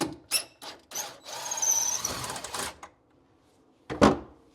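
A few clicks, then a cordless drill runs for about a second and a half, backing a cabinet screw out of the wall. One sharp knock near the end.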